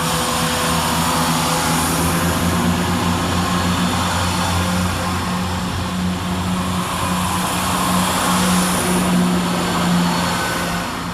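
Two coupled Class 170 Turbostar diesel multiple units running their diesel engines under power as they pull out of the station, a loud steady engine note.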